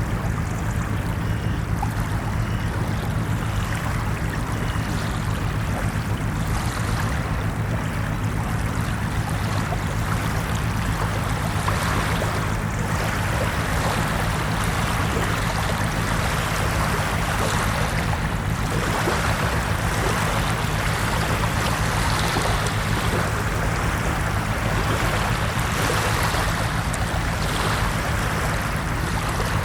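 Ocean surf washing onto a beach, a continuous rush of water with a steady low rumble underneath, swelling with a new wave every six or seven seconds.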